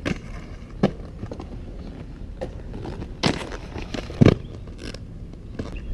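Inline skates rolling on concrete under a steady low rumble, with a handful of sharp knocks and clacks from skates landing and hitting the ramps. The loudest knock comes about four seconds in.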